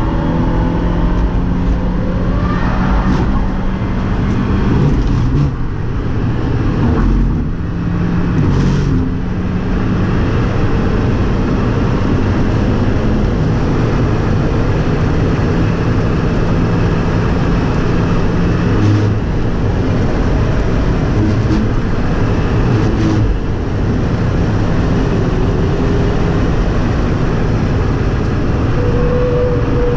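2017 Fiat 124 Spider Abarth's 1.4-litre turbocharged four-cylinder engine running hard at speed on track, its pitch changing a few times in the first ten seconds and then holding more steadily.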